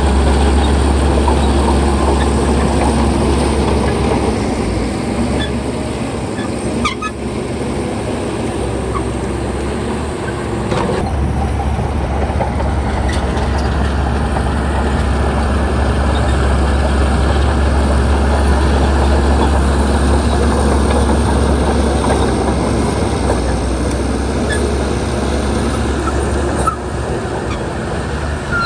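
Bulldozer's diesel engine running steadily, with a deep drone that eases for several seconds about a quarter of the way in and then comes back, along with a few sharp knocks.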